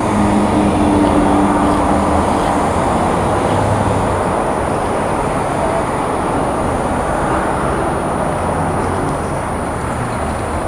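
Suzuki VanVan motorcycle on the move: its single-cylinder engine runs under a steady rush of wind and road noise. The engine's hum is most distinct for the first couple of seconds.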